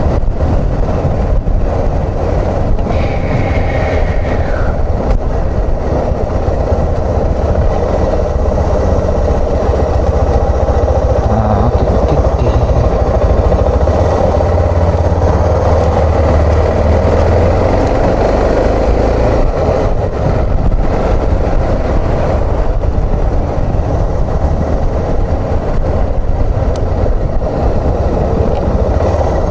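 Suzuki XF650 Freewind's single-cylinder engine running steadily on the move, with a brief falling high whine a few seconds in.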